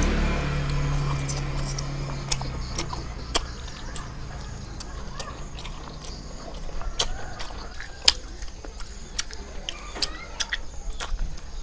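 Close-up mouth sounds of eating sticky caramelized pork skin: irregular sharp clicks and smacks of chewing and biting. A passing car's engine fades away over the first two seconds or so.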